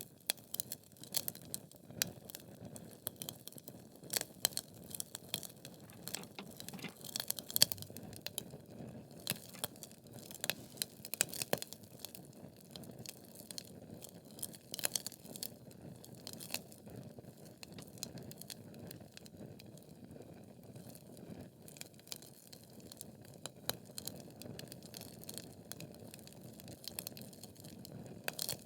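Wood logs burning in a fireplace, crackling and popping irregularly over a soft low rumble of flame. The pops come thickest in the first half and again near the end.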